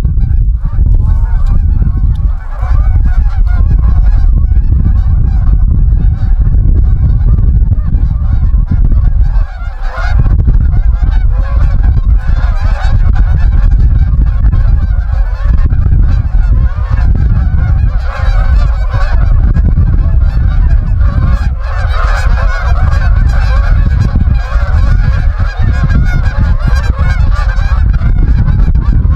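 Many geese honking at once, a continuous chorus of overlapping honks, over a loud low rumble.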